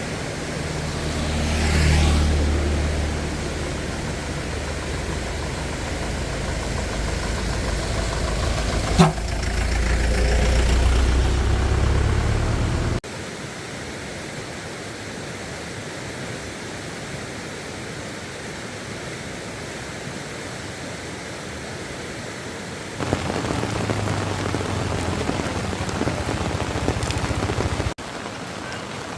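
A steady hiss of rain with a low engine rumble in the first part. The sound changes abruptly three times, the rumble dropping out about halfway through.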